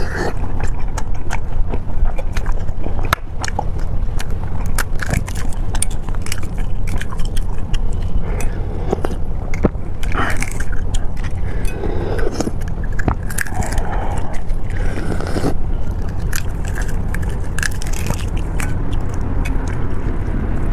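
Close-miked eating: biting and chewing, with many sharp, irregular crunchy clicks and wet mouth noises, over a steady low hum.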